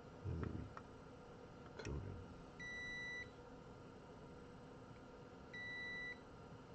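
Digital multimeter in continuity mode beeping: two steady high beeps of about two-thirds of a second each, a few seconds apart, as the probes bridge the repaired trace, showing good continuity. Two soft low knocks come in the first two seconds.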